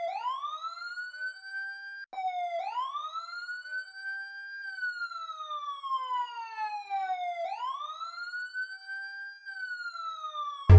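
Siren wailing: a single clean tone that sweeps quickly up and then slides slowly back down, three times over.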